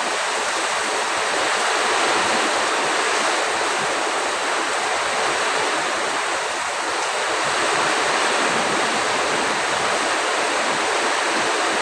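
Storm: a steady, loud rush of heavy rain driven by strong wind.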